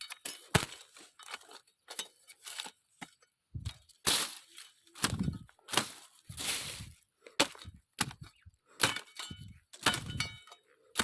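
Woody stems and branches being chopped and broken by hand: irregular sharp cracks and thuds, roughly one or two a second.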